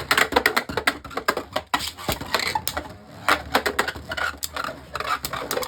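Two Beyblade Burst spinning tops, Harmony Pegasus and Myth Odax, battling in a stadium: rapid, irregular clacks and clatter as the tops collide again and again.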